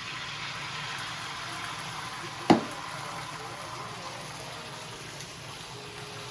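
Steady rush of running water, with one sharp knock about two and a half seconds in.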